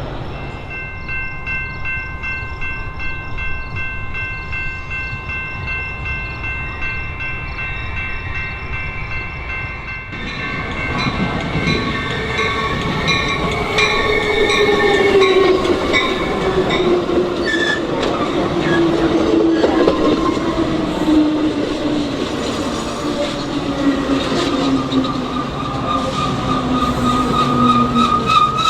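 A train passes on the main line. For the first ten seconds or so there is a steady high ringing, then about ten seconds in the train grows loud, with wheel clatter and a tone that falls slowly as it goes by.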